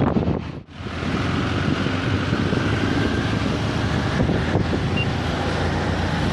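Auto-rickshaw ride noise: the engine running steadily amid road and traffic noise, with a brief drop in level under a second in.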